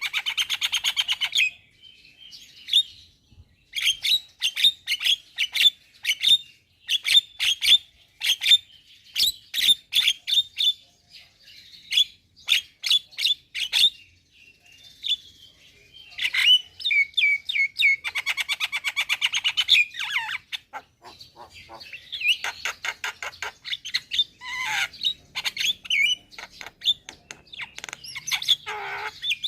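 Javan myna song: a vigorous, varied run of sharp chirps and fast rattling trills, broken by a couple of short pauses.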